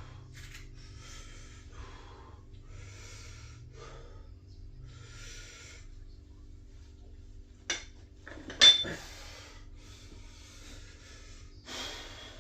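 A person breathing hard in repeated strong breaths, as between lifting reps. In the middle, two sharp metal clanks about a second apart are the loudest sounds, from gym weights being knocked or set down.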